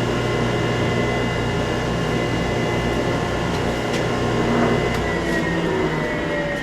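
Wood lathe motor running with a steady hum of several tones; about five seconds in the low hum drops away and the tones begin to slide down in pitch as the lathe slows.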